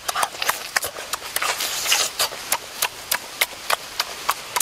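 Close-up eating sounds of a braised pig's leg being chewed: lip-smacking and chewing in a run of sharp clicks, about four a second.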